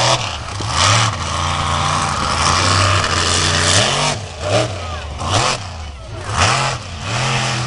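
Monster truck engine revving hard, its pitch dropping as the throttle is let off and climbing back several times in quick throttle blips.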